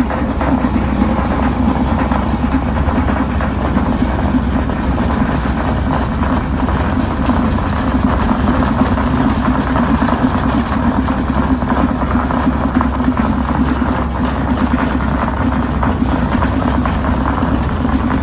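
A horizontal directional drilling rig's diesel engine runs steadily, with no change in pace.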